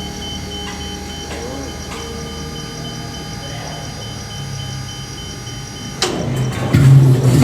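GE 7FDL-8 locomotive diesel engine starting: a steady low hum with faint whining tones, then about six seconds in a sudden loud rush as the engine cranks, and it fires under a second later into a loud, low, steady running drone.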